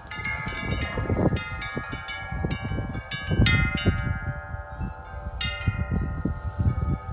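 Wind chimes ringing in gusty wind, many strikes overlapping into a jangle of several notes, loudest about three and a half seconds in. Strong wind buffets the microphone throughout.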